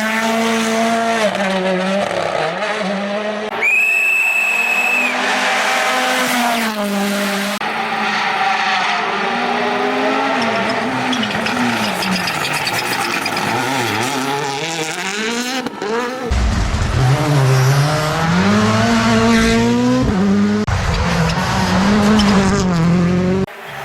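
Rally cars' turbocharged four-cylinder engines revving hard and changing gear as they pass, heard in several short clips, with a steady high whistle for a moment about four seconds in.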